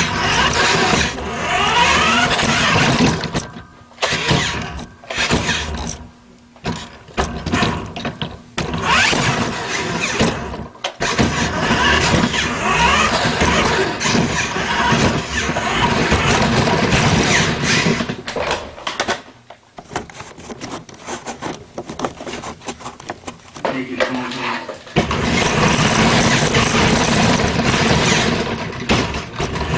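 A 1/8-scale radio-controlled truck's motor running hard, revving up and dropping off again and again, with short lulls between bursts.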